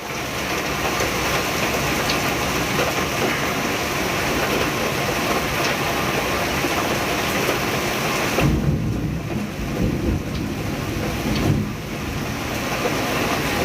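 Heavy rain pouring down steadily in a thunderstorm. From about two-thirds of the way in, deeper low rumbling swells up over the rain, then eases.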